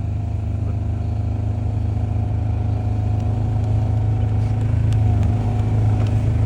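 Motor vehicle engine running steadily with a low, even drone while driving, getting a little louder about four seconds in.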